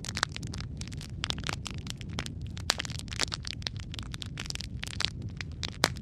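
Wood fire crackling in a fireplace: irregular sharp pops and snaps of burning logs over a steady low rumble of flames, with one louder pop near the end.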